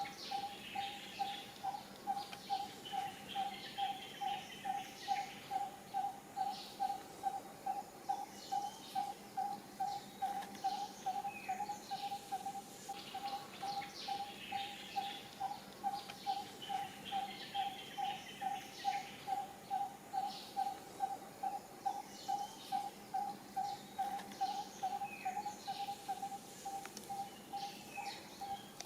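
Outdoor wildlife sounds: a single low-pitched note repeated evenly, about twice a second, with scattered bird chirps and tweets above it.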